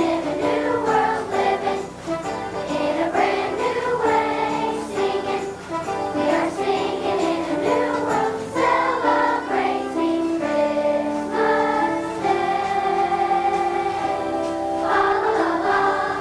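A choir of elementary-school children singing a song together, with a long held note in the second half.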